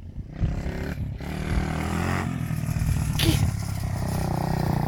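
Mini bike's small engine running steadily, getting louder over the first half second, with a brief sharp noise about three seconds in.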